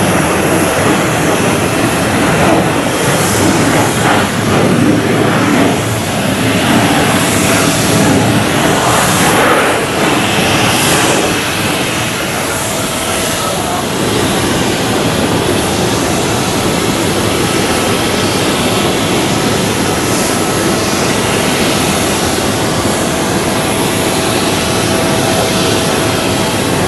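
Jet airliner engines running loud, a steady heavy rush with a faint whine through it, easing slightly about twelve seconds in.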